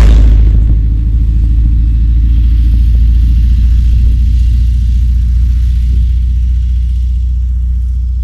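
1991 VW Vanagon Synchro driving on an icy road: a steady low rumble of engine and tyres, with a few faint clicks about two to four seconds in.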